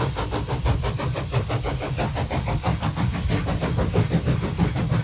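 Canadian National container train: a loud, steady low rumble with a fast, even clatter running through it.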